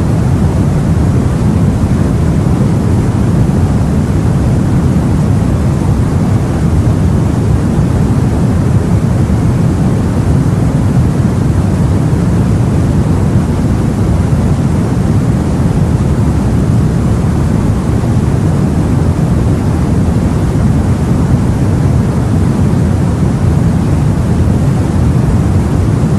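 Steady, low, rumbling wash of the sea around a boat, unbroken and without distinct wave crashes.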